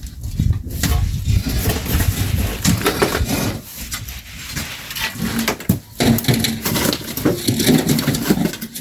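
Shovels digging and scraping into sand and gravel, making irregular crunches and knocks as the load is tossed.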